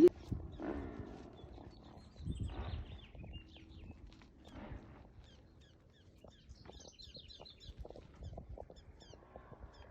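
Small birds chirping in short, repeated high notes, with a sharp knock at the very start and soft low thuds underneath.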